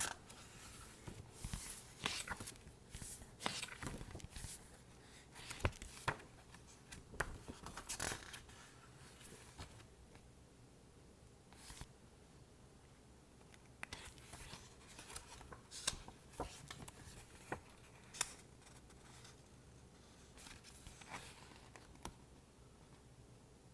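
Fingers handling a paper book: irregular light taps, scratches and short papery swishes, with a few sharper clicks and calmer pauses between them.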